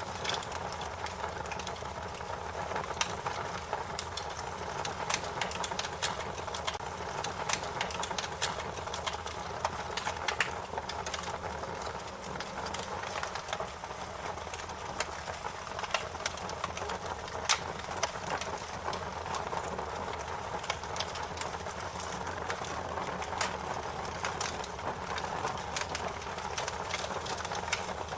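Wood fire crackling: a steady hiss and low rumble with frequent sharp pops and snaps, a few of them louder than the rest.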